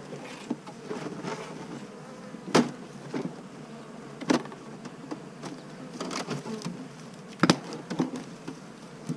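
A honeybee swarm buzzing, a steady hum of many bees. A few sharp knocks or clicks break through it, the loudest about two and a half, four and a half and seven and a half seconds in.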